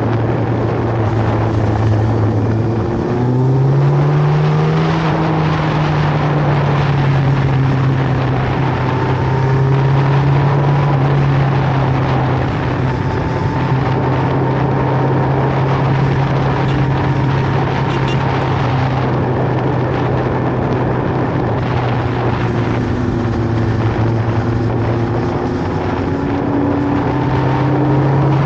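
Superbike engine running at steady road revs, its note rising briefly about three seconds in and shifting a little later, over a steady rush of noise.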